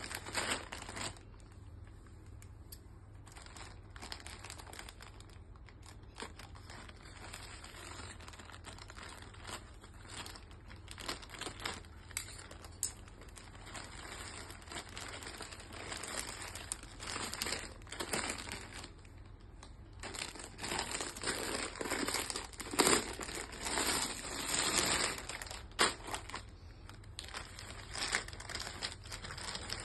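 Parcel packaging crinkling and rustling in irregular bursts as it is handled and opened by hand, busiest near the end.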